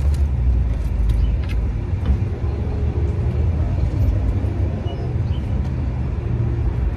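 Low, steady rumble of motor-vehicle noise.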